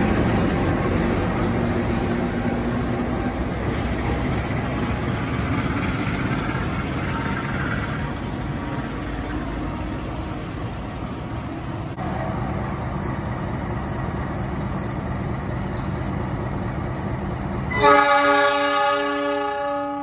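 Train running through the station with a steady rumble of wheels on rails. Near the end a diesel locomotive horn sounds loudly for about two seconds, one chord of several tones.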